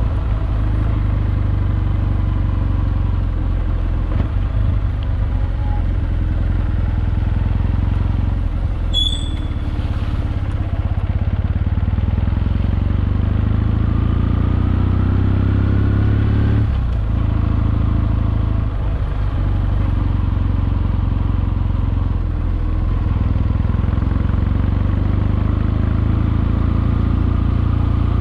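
Kawasaki W650's air-cooled parallel-twin engine running steadily under way. Its note climbs as the bike accelerates and drops sharply with a gear change about seventeen seconds in.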